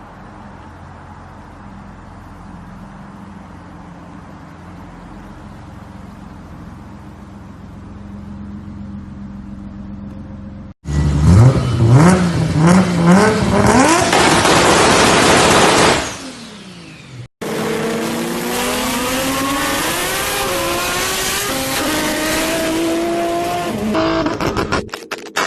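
Toyota Supra MK4's turbocharged 2JZ straight-six, heard in several clips. First it runs steadily and fairly quietly. About ten seconds in, a loud burst of sharp revs rises and falls again and again. After a cut comes a steady loud engine note whose pitch climbs and dips as the car drives, and near the end a rapid series of pops.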